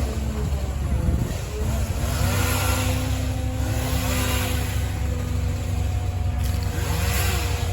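A large engine running steadily at a constant speed, with a low hum. The hiss of passing traffic swells and fades about three times over it.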